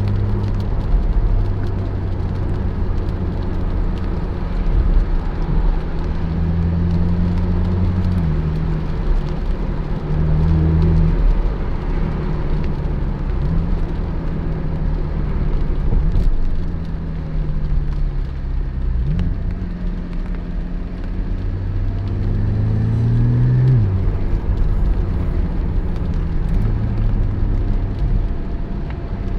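Porsche 718 Spyder's 4.0-litre flat-six engine under way, its pitch climbing and then dropping at gear changes several times, over steady road noise.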